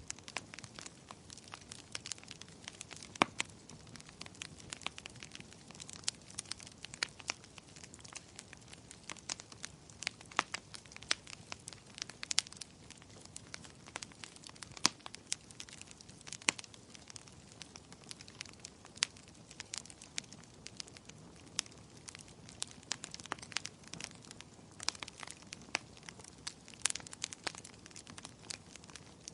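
Wood burning in a fireplace, crackling: irregular sharp pops and snaps, several a second, over a steady low hiss of the flames.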